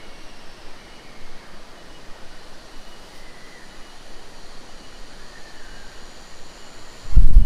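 Steady, quiet outdoor hiss with a few faint high chirps. About seven seconds in, a sudden loud low rumble of wind buffeting the microphone starts.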